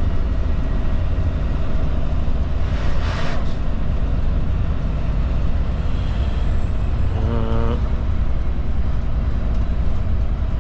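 Kenworth cabover road train running steadily on the road, heard from inside the cab as a low engine and road rumble. A short hiss about three seconds in and a brief pitched note about seven seconds in.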